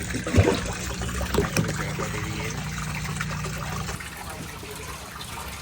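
Water running and trickling into a tank as it is filled. A steady low hum runs under it for the first four seconds or so, and there are a couple of knocks near the start.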